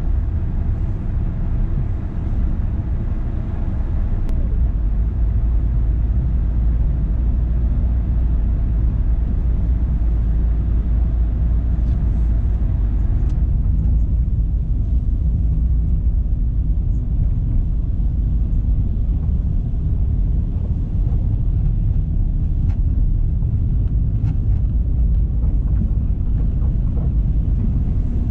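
A car driving along a city road: a steady low rumble of tyres and engine, with a higher road hiss that dies down about halfway through.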